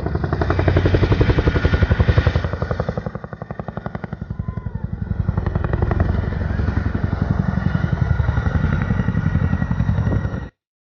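Helicopter rotor chop: a fast, even beating of the blades with a heavy low rumble, dipping about three seconds in and building again, then cutting off abruptly near the end.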